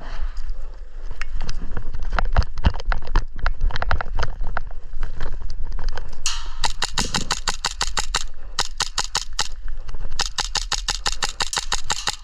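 Airsoft rifle firing on full auto: about halfway in come three rapid bursts of evenly spaced cracks, each lasting one to two seconds. Before them there are scattered sharp clicks and knocks.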